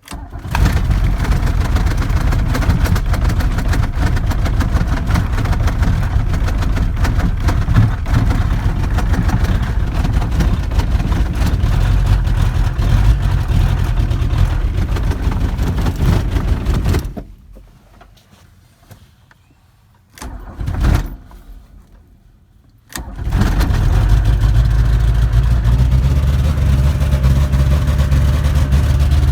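A truck engine running steadily, then cutting out a little past halfway. A short burst of engine sound follows a few seconds later, and then the engine is running steadily again.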